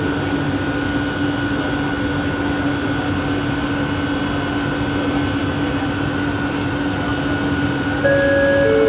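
Bombardier Innovia ART 200 train running, its linear-induction-motor drive giving a steady two-tone whine over rolling noise. About eight seconds in, a louder, higher tone cuts in.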